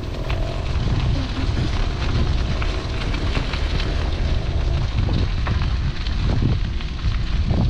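Wind rushing and rumbling over an action camera's microphone while riding a bike, with a few sharp knocks and rattles from the ride.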